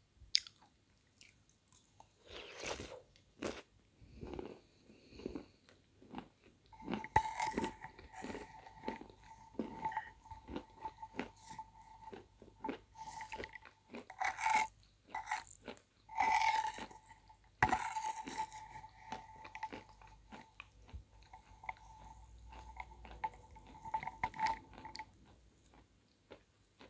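Close-up chewing of chunks from a bowl of soup, with crunching and wet mouth clicks, sparse at first and then steady. A faint steady high tone runs under the chewing through the middle.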